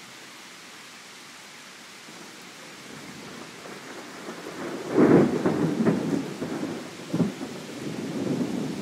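Steady heavy rain, then thunder rumbling in from about three seconds in, with a loud crack about five seconds in and another near seven seconds.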